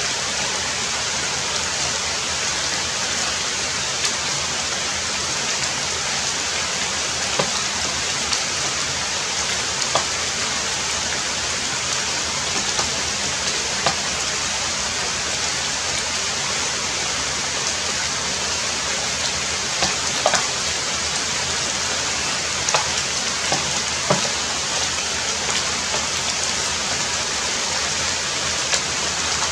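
Heavy rain falling steadily, with scattered louder drops ticking every second or so.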